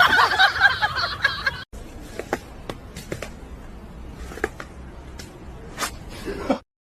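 A short burst of laughter that cuts off suddenly, followed by a quieter stretch with a few scattered light taps and clicks.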